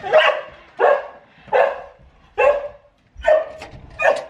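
A dog barking repeatedly, six barks at an even pace of roughly one every 0.8 seconds.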